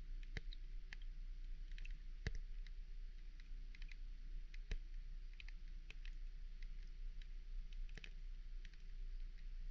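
Underwater ambience: scattered sharp clicks, a few a second at irregular spacing, over a steady low rumble and a faint wavering hum.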